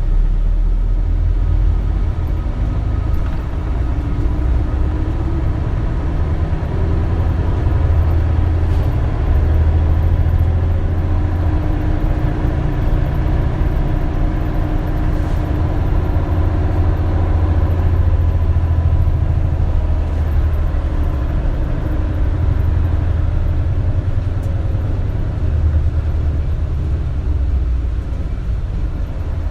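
Isuzu Erga (KL-LV280L1) diesel city bus heard from inside the cabin while driving: a steady, loud low drone of engine and road noise. The engine note rises a few seconds in, then holds steady.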